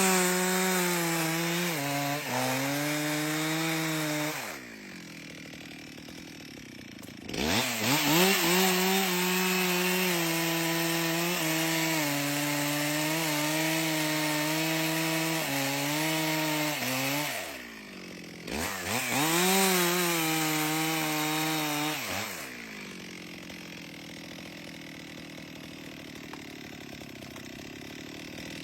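Chainsaw running at high revs while cutting wood. Twice it drops off to a much quieter run and revs straight back up, and for the last several seconds it runs quieter.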